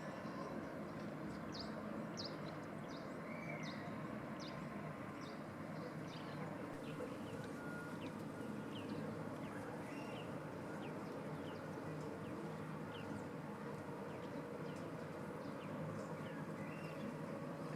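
Small birds chirping, many short high notes that fall in pitch, over steady outdoor background noise.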